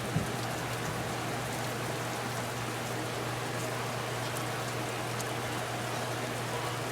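Heavy rain from a thundershower falling steadily, an even hiss of downpour with no thunder.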